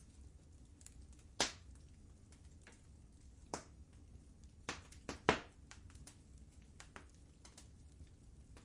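Wood fire in a fireplace crackling: scattered sharp pops and small clicks, the loudest a little past five seconds in, over a faint low rumble.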